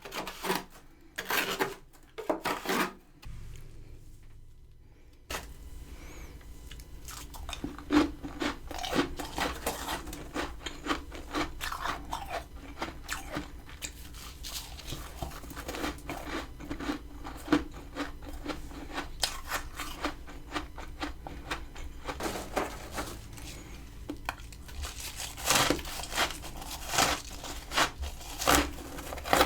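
Repeated crunching of powdery freezer frost, in short dense clusters close to the microphone. A low steady hum comes in about five seconds in.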